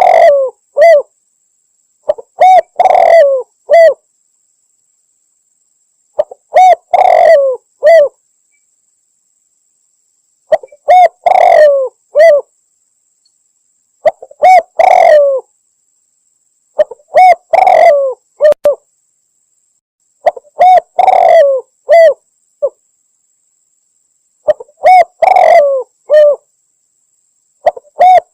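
Spotted dove (tekukur) cooing: a short phrase of several coos with a longer, louder middle note, repeated about every three and a half to four seconds. This is a female's call to males, as used in a hunting lure recording.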